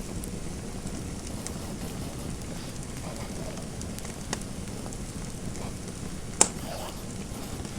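Fireplace fire crackling over a steady hiss, with scattered sharp snaps and one loud pop about six and a half seconds in.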